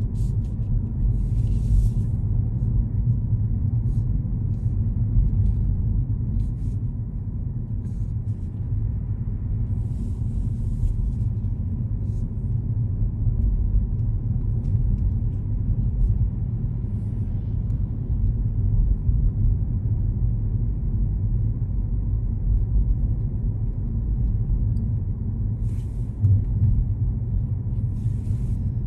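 A car driving, heard as a steady low rumble of engine and road noise. Brief hissing swishes come through a few times.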